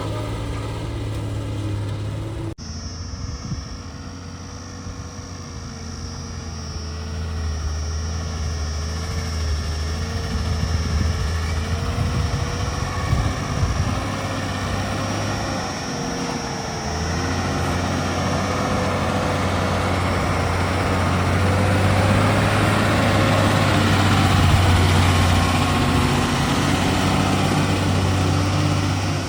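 Diesel engine of a JCB 3DX backhoe loader running steadily, with a thin wavering whine above the engine note. There is an abrupt change in the sound about two and a half seconds in, and the engine grows louder in the second half.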